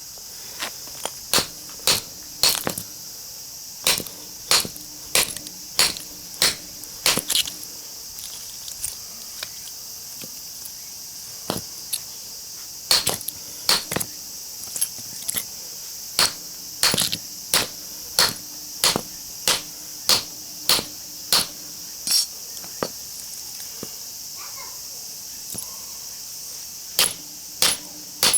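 Hammer striking a chisel or metal plate driven into a small transformer's iron core: runs of sharp metallic blows about two a second, with pauses of a few seconds between runs. Insects chirr steadily behind.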